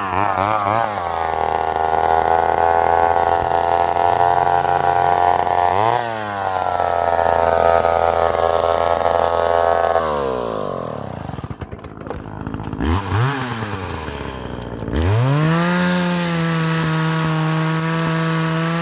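Remington Super 770 two-stroke chainsaw running at high revs through hard maple. The pitch sags briefly about six seconds in. About ten seconds in it falls away, is blipped briefly, then revs back up and holds high near the end.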